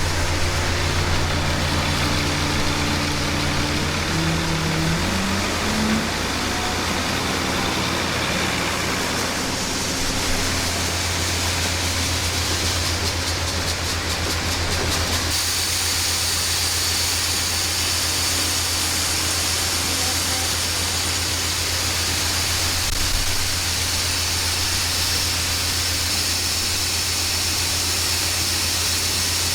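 A vehicle engine running steadily, its pitch stepping up a few seconds in as it revs or pulls away.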